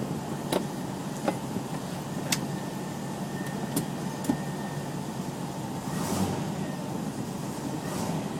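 Land Rover 90's V8 engine idling steadily from cold without choke, through a stainless steel sports exhaust with tubular manifolds, heard from inside the cab. A few short sharp clicks sound over the idle.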